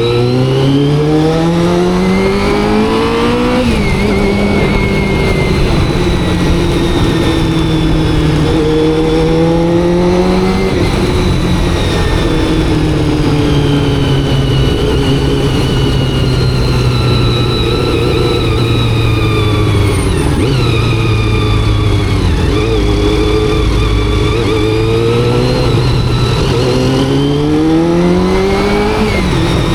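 Honda CBR400RR's carbureted inline-four engine under way: the revs climb and then drop sharply three times, as at gear changes, about three and a half seconds in, around ten seconds and near the end. In between it holds a steady cruise and eases off.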